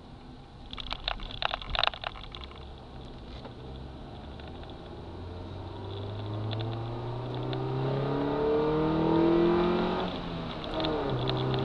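Honda Civic's D15B7 1.5-litre four-cylinder engine, breathing through an AOMA cone intake filter, accelerating, heard from inside the cabin. The engine note rises steadily, dips at a gear change about ten seconds in, then climbs again. A short burst of clicking and rattling comes about a second in.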